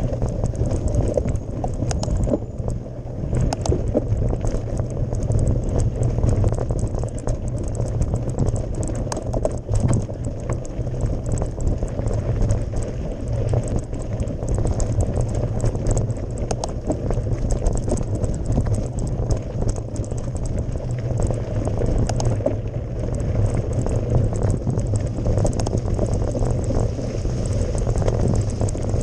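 Mountain bike climbing a gravel forest road: tyres crunching over gravel, with many small clicks and rattles over a steady low rumble.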